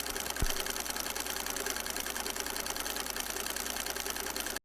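A fast, steady mechanical clatter of many even clicks a second over a low hum, with one thump about half a second in; it cuts off suddenly near the end.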